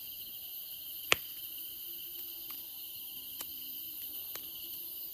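Insects chirring steadily and high-pitched, with one sharp pop from the burning wood of a campfire about a second in and a few fainter crackles later.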